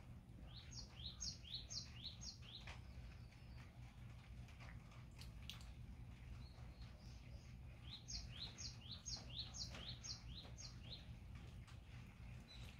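A songbird singing two phrases, each a quick run of six or seven short rising notes, about seven seconds apart. A low steady rumble lies underneath.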